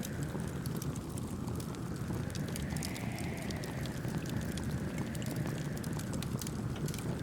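Campfire burning, its wood crackling in frequent small pops over a low steady rumble, with a soft wind-like whoosh that swells and fades.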